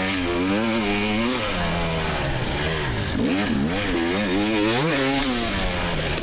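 2024 GasGas EX300's 300 cc two-stroke single-cylinder dirt bike engine under load, its revs rising and falling over and over as the throttle is opened and shut through the course.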